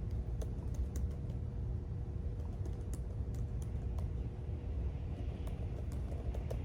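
Computer keyboard typing: scattered, irregular keystroke clicks over a steady low background rumble.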